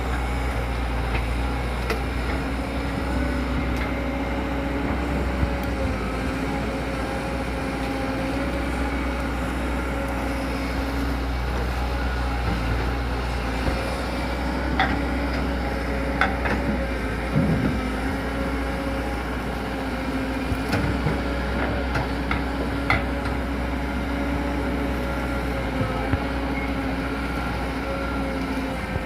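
Hydraulic excavator's diesel engine running steadily at an even pitch, with a few short knocks in the second half.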